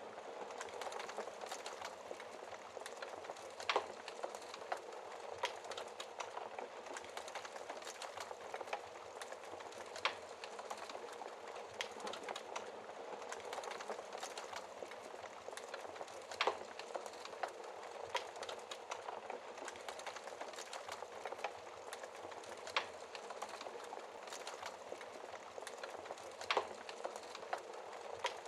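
Fireplace fire crackling steadily: a constant patter of small crackles with a sharper pop every few seconds, five in all.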